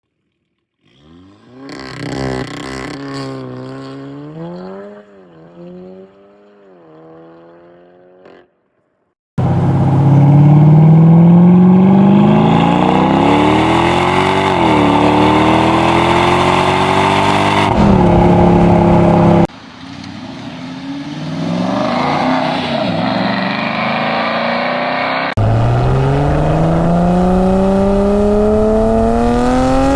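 Car engines heard in a string of separate clips joined by abrupt cuts: first an engine revving up and down more softly, then loud acceleration runs with the engine pitch climbing steadily, dropping once at a gear change, and a final run rising steadily near the end.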